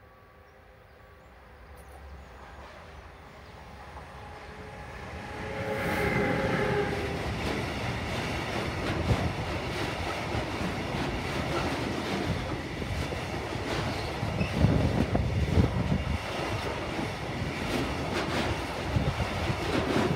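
A Siemens Vectron locomotive hauling a container freight train approaches, growing steadily louder, and passes about six seconds in. After it the loaded container flat wagons roll by with a steady wheel rumble and clickety-clack.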